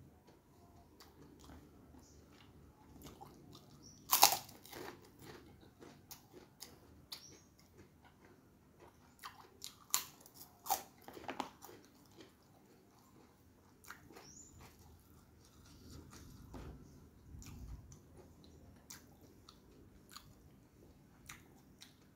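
A person chewing a hand-eaten mouthful of rice with fried tofu, tempeh and stir-fried water spinach, with scattered short crunches and clicks. The loudest crunch comes about four seconds in, with another cluster around ten to eleven seconds.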